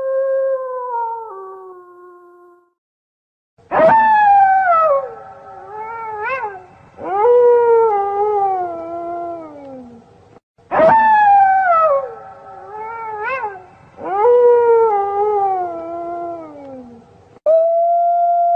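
A wolf pack howling: several overlapping long howls that slide downward in pitch, with a quick rise and fall partway through. A howl fades out, then after a short pause about three seconds in the same chorus sounds twice over, and near the end a single steady held howl begins.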